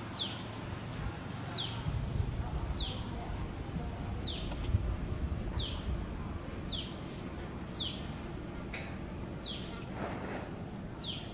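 A bird repeating a short, high whistle that falls in pitch, about nine times at even intervals of a little over a second, over a low background rumble.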